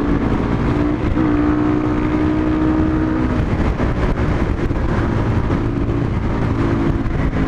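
Supermoto motorcycle engine running loud and steady under way, over heavy wind rush. The engine note dips briefly about a second in and settles lower and weaker a little after three seconds.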